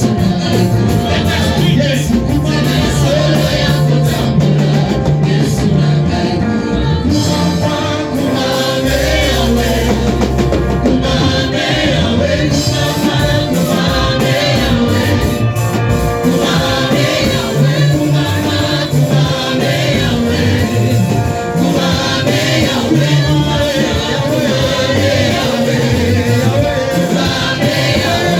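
Gospel music with a choir singing over a loud instrumental backing and a deep bass line, continuous throughout.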